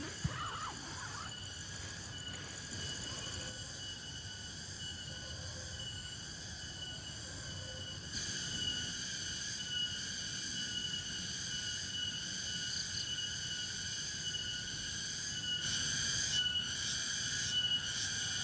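Chorus of forest insects: steady, layered high-pitched buzzing with a thin pulsing tone over it, growing louder and more pulsing in the last few seconds.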